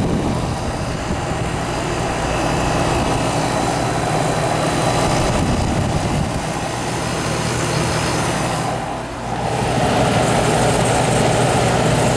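Vintage Aqua-Dri 25-pint dehumidifier running just after being switched on: a steady hum with a rush of noise over it. The sound dips briefly about nine seconds in, then carries on.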